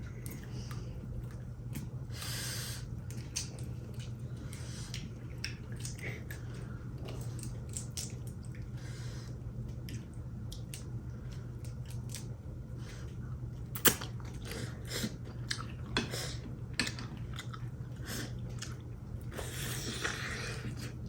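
People chewing and eating seafood-boil crab and shrimp, with many short clicks and crackles from the shells being handled and peeled; the sharpest single click comes about fourteen seconds in. A steady low hum runs underneath.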